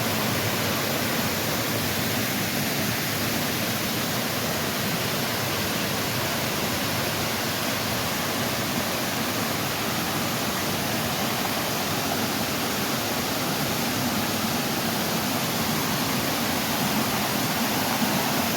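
Steady rushing of a waterfall and the rapids running off below it.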